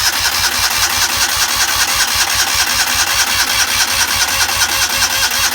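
Joyner Sand Spider 650cc four-stroke engine cranking on the starter without catching, an even chugging of about six or seven beats a second. It is failing to start after its distributor timing was reset.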